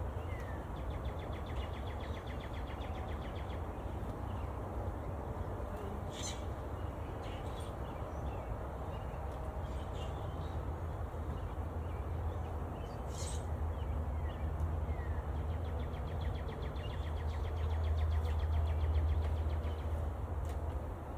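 Birds calling outdoors: short chirps and rapid trills, over a steady low rumble that grows louder a few seconds before the end.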